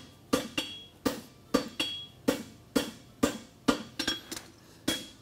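Blacksmith's hammer striking a hot steel horseshoe over the horn of an anvil, forging out the shoe's branch. About a dozen steady blows, roughly two a second, each with a short metallic ring.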